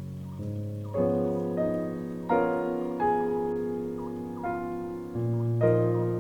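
Background music: slow, soft keyboard chords, each struck and left to ring and fade before the next.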